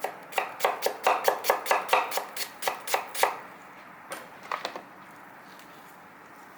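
Knife chopping onion, quick even strokes about four a second for some three seconds, then a few scattered cuts.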